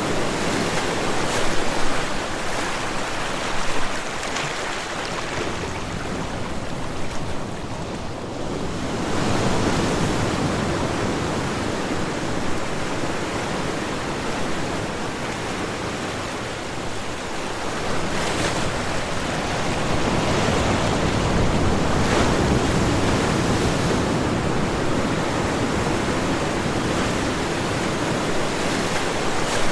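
Ocean waves breaking and washing onto a beach in a continuous rushing surf that swells and ebbs, easing off about eight seconds in before the next waves build.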